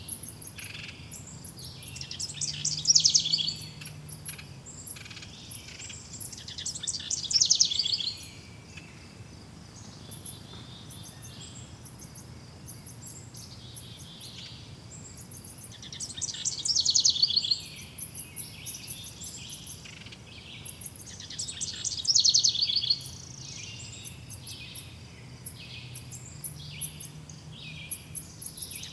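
Several wild birds singing. One bird repeats a loud, fast-trilled song phrase every few seconds, over a steady scatter of high, thin chirps from others.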